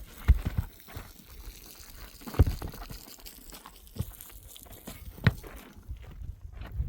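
Soil and stones being worked by hand: a low crunching and scraping, broken by about five sharp knocks, the loudest about two and a half seconds in.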